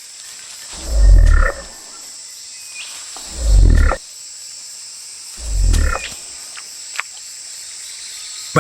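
Cassowary booming: three deep, low booms a couple of seconds apart, the last one softer, over a steady high hum of rainforest insects.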